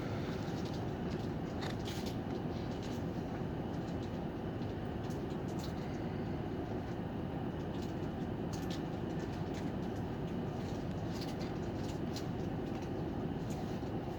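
City bus heard from inside the cabin: steady engine and road noise, with short rattles and clicks from the fittings now and then.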